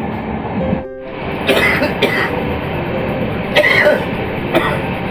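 Steady running noise of a moving passenger train heard from inside the coach, briefly dipping about a second in, then broken by four short harsh bursts.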